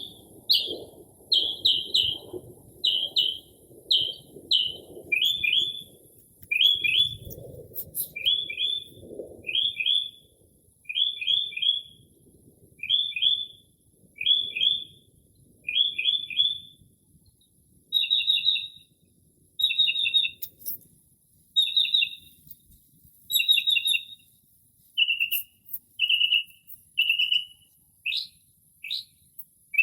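Northern mockingbird singing, mimicking the calls of other birds: short high phrases about one a second, each repeated several times before it switches to a new one, changing type about five seconds in, again near eighteen seconds and again near twenty-five seconds. A faint steady high hiss runs underneath, with a faint low rumble in the first ten seconds.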